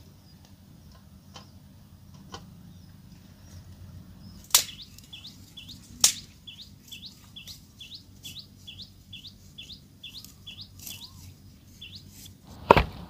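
A bird calling over and over, a short chirp repeated about twice a second for several seconds, over a low steady rumble. Two sharp cracks come just before the calling starts, and a heavy knock comes near the end.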